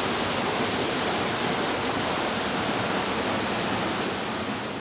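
Waterfall rushing steadily, heard up close; the sound cuts off suddenly at the very end.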